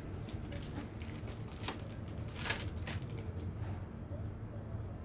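A steady low hum with scattered small clicks and taps, two sharper ones about a second and a half and two and a half seconds in.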